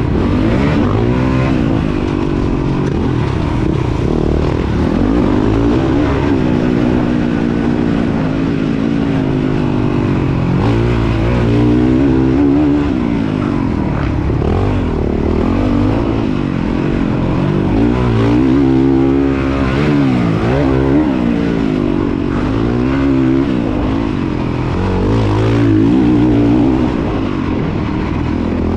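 Motocross dirt bike engine racing, its pitch climbing and dropping again every second or two as the throttle opens and closes.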